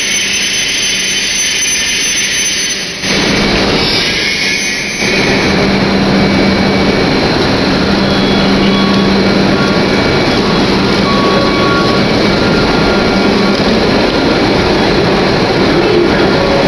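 Steady loud whir of a Hokuriku Shinkansen train standing at the platform, its blowers and air conditioning running with a constant low hum. The noise gets louder in two steps a few seconds in and then holds steady.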